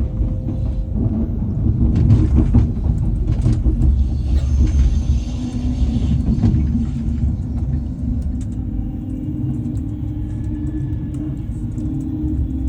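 Passenger train running, heard from inside the carriage: a steady low rumble with a faint hum and scattered clicks and knocks, growing louder for a few seconds in the middle.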